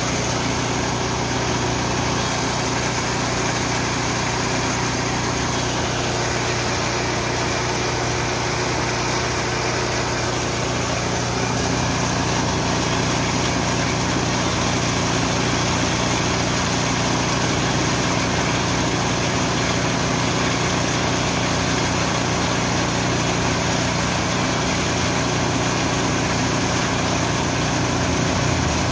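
Richi KD 350 mini rice and corn milling machine running steadily, its note shifting slightly about a dozen seconds in.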